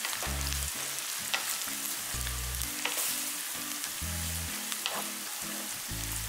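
Sliced onions and gulai spice powder sizzling in hot oil in a wok while a wooden spatula stirs, with a few sharp clicks of the spatula against the pan. A low, repeating bass beat runs underneath.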